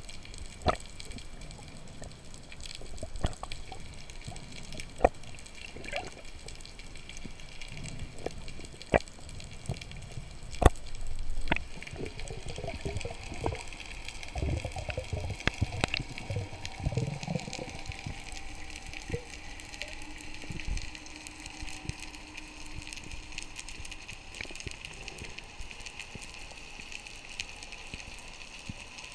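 Underwater ambience heard through a camera's waterproof housing: water moving and gurgling, with scattered sharp clicks and crackles, and a few low rushing swells about halfway through.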